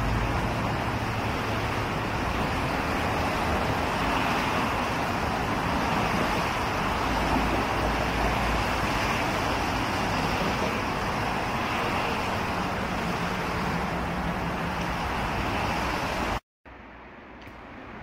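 Seoul Subway Line 3 electric train running along the track, a steady rumble of wheels on rails. The sound cuts off suddenly about 16 seconds in, giving way to quieter station platform ambience.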